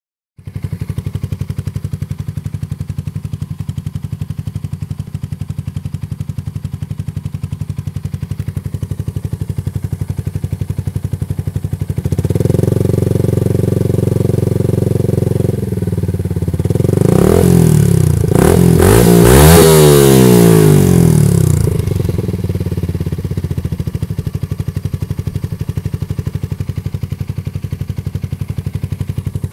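Yamaha YZF-R125's single-cylinder four-stroke engine running through a custom exhaust with a redesigned muffler chamber. It idles steadily, is held at higher revs from about twelve seconds in, is then revved up and down several times, and settles back to idle.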